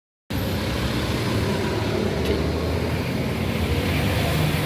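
Steady low background rumble that cuts in abruptly just after the start, following a moment of dead silence.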